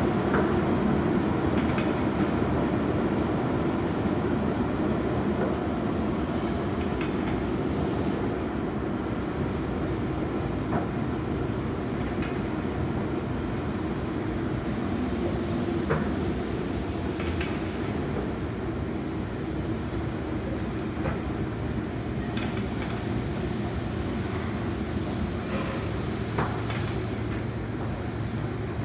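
Car wash running: a steady rumble of water spray and machinery, with scattered knocks and taps.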